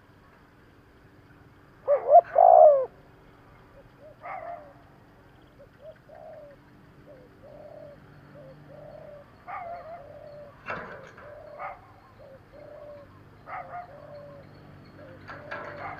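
Spotted dove cooing: one loud coo phrase about two seconds in, then a run of softer, short coos repeated at uneven intervals.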